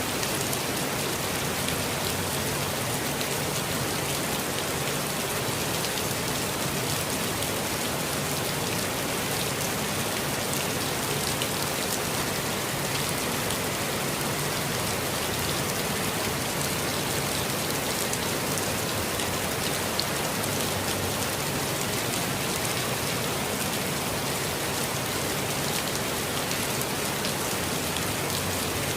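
Steady rain falling in a forest, with many fine drops pattering on leaves and other surfaces.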